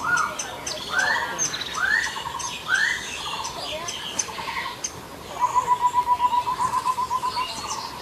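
Birds calling: three rising calls about a second apart in the first few seconds, then a fast, even trill held at one pitch for about two seconds, with short high chirps throughout.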